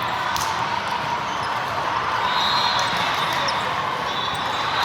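Busy sports-hall sound during an indoor volleyball match: a steady, echoing hubbub of players and spectators, with a sharp ball strike about half a second in.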